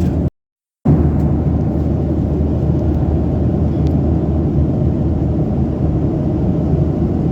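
Steady rumble of a Boeing 737-800's engines and airflow heard from inside the passenger cabin. It drops out completely for about half a second near the start, then resumes unchanged.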